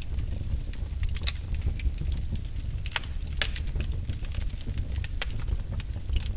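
Logs burning in a fireplace: irregular sharp crackles and pops over a steady low rumble of the fire, with one louder pop about three and a half seconds in.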